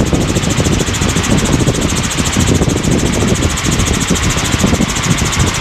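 Helicopter in cruise flight, heard inside the cabin: steady engine and rotor noise with a fast, even pulse.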